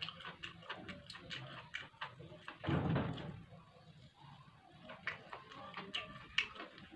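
Close-miked eating sounds: chewing and wet mouth clicks, with a louder, fuller mouth sound about three seconds in.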